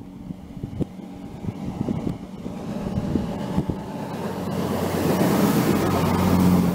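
Passenger train approaching along electrified main-line track and passing under the bridge. Its rumble and steady low hum build up and are loudest near the end. A few light knocks come in the first three or four seconds.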